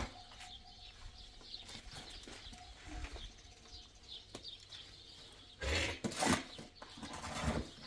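Birds chirping outdoors in a run of short, high chirps, broken by two louder noisy bursts at about six and seven and a half seconds.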